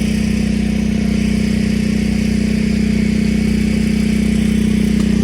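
An engine running steadily with a loud, even hum that does not change in pitch.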